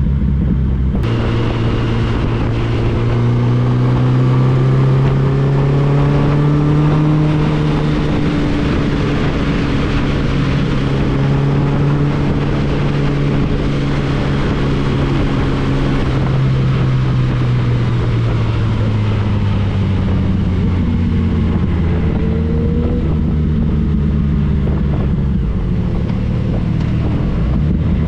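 Motorcycle engine running under way with wind rushing past. Its pitch climbs gently, holds, then eases off a little past halfway.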